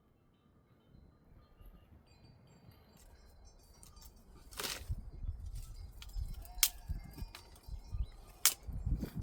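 A herd of sheep and goats moving close by: low shuffling that grows louder about halfway through, with a few sharp clinks.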